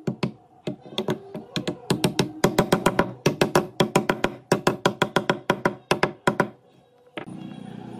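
Rapid, slightly uneven hammer or mallet blows on wood, about four a second, stopping about six and a half seconds in. A steady hum of a few held tones starts near the end.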